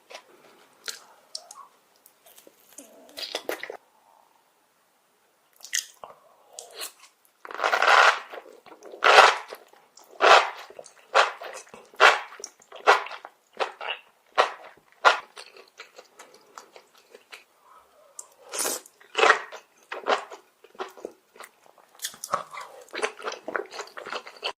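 Close-miked crunchy eating: a person biting and chewing crisp food, with a run of loud crunches about once a second through the middle.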